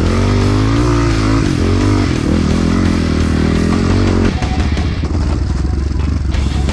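Single-cylinder four-stroke engine of a Honda CRF 250F dirt bike running on a trail, its revs rising and falling with the throttle. About four seconds in, the sound changes abruptly to a lower, choppy run.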